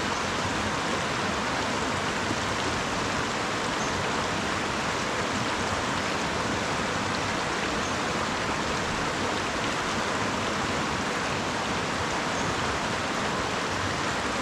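Mountain river rushing steadily over its bed: a continuous, even wash of flowing water.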